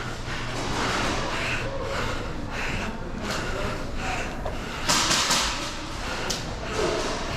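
Scuffing, rustling and light knocks, with a short loud hissing rush about five seconds in.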